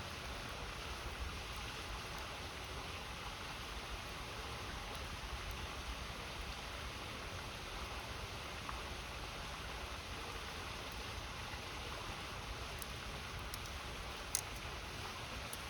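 River water flowing steadily, with a few sharp pops from a wood campfire near the end.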